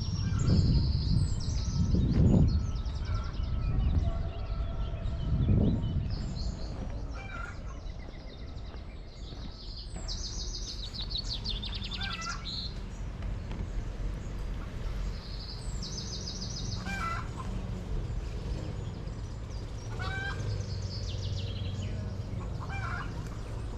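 Wild birds singing and calling: quick repeated high-pitched trills and chirps, with a few lower calls. Low rumbling thuds are loudest in the first few seconds, then give way to a steady low background hum.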